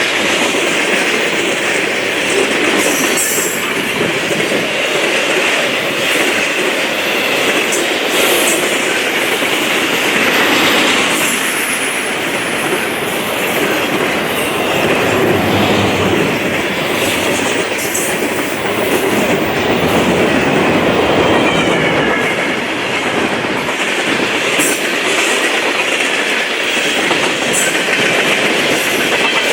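Freight train cars rolling past at speed: a steady, loud rush of wheels on rail with clickety-clack over the rail joints and faint brief wheel squeal.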